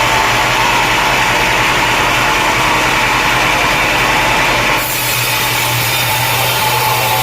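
Engine-driven sawmill running with its saw cutting through a log, a steady drone under the cutting noise; the sound changes abruptly about five seconds in.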